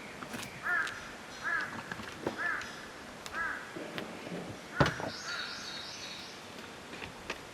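A crow cawing four times, about one call a second. A sharp knock comes about five seconds in, followed by a brief higher chirping.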